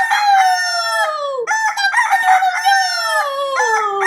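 Rooster crowing over and over, each crow ending in a long falling drawl; one crow ends about a second and a half in, a second runs to near the end, and a third begins just after.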